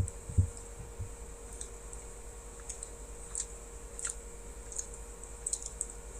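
Someone eating a spoonful of Blizzard ice cream, heard as faint scattered clicks and small mouth sounds over a steady hum, with two soft low thumps near the start.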